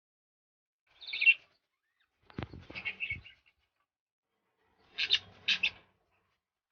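European goldfinch giving three short bursts of high twittering chirps, with a couple of low knocks during the middle burst.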